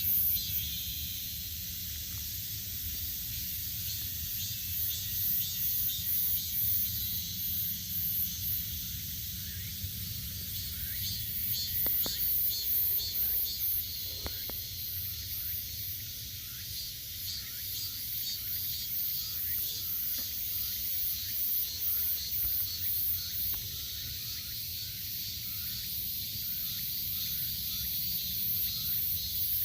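Cicadas singing in a steady, pulsing high chorus, with short bird chirps joining in the second half, over a low rumble.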